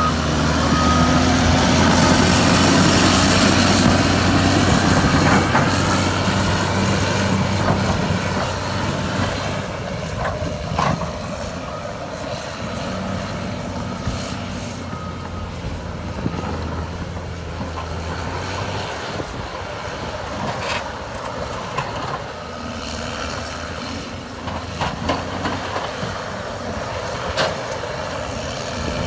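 Caterpillar D6R2 bulldozer's diesel engine running steadily, louder for the first several seconds and then easing to a lower level, with a few short knocks.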